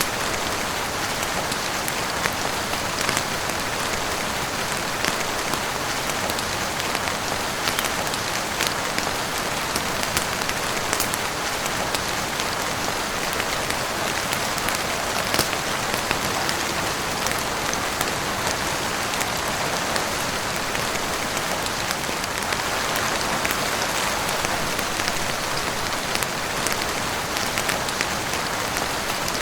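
Heavy rain falling steadily: a dense, even hiss with frequent sharp ticks of individual drops.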